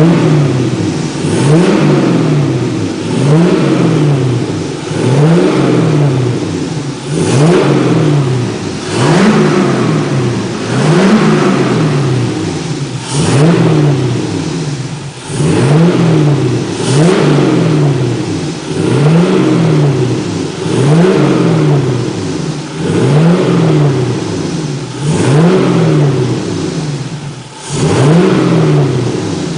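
2002 Pontiac Trans Am Ram Air's 5.7-litre LS1 V8 being revved again and again, the pitch climbing and falling back about every two seconds.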